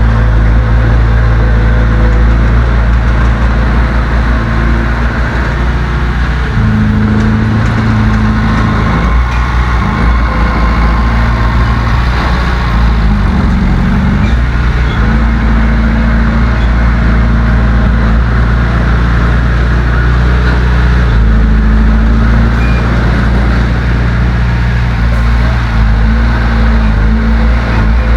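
Heavy earthmoving machine's diesel engine running loudly under load. Its pitch shifts several times: it steps up about a third of the way in, dips and climbs again near the middle, and changes once more later on.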